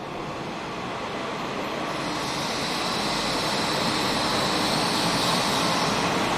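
Futatsuboshi 4047 diesel railcar train running slowly along the platform, a steady rolling rumble with a hiss above it that grows louder as the cars pass.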